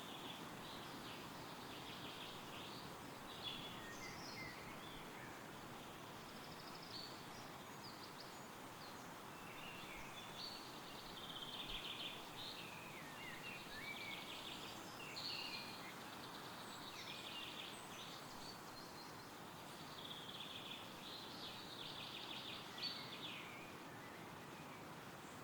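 Songbirds singing over a steady rustle of wind through trees: bouts of quick high chirps and trills come and go, with the busiest singing about halfway through.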